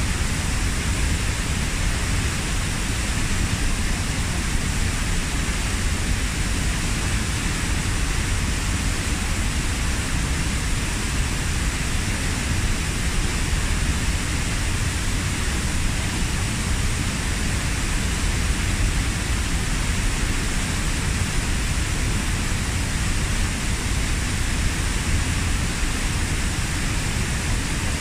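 Waterfall about 15 m high, plunging into its pool: a steady, unbroken rush of falling water, strongest at the low end.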